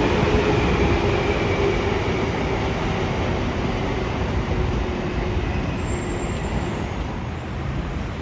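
Train running on the rails, a steady rail noise with a faint tone early on that slowly fades away.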